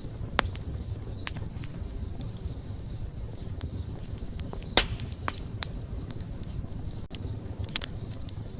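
Wood fire burning with a steady low rumble, broken by a handful of sharp crackles and pops, the loudest a little past halfway.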